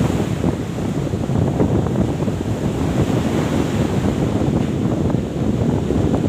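Wind buffeting the microphone over the steady wash of sea waves, a dense rushing noise with no break.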